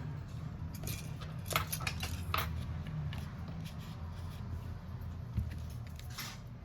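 Scattered small metallic clicks and clinks of hand tools handled on a phone repair bench, over a steady low hum.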